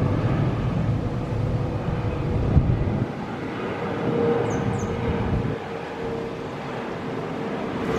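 Boeing 777-300 jetliner approaching: steady distant jet engine noise with a held whine that grows a little louder toward the end. A low rumble underneath drops away about three seconds in.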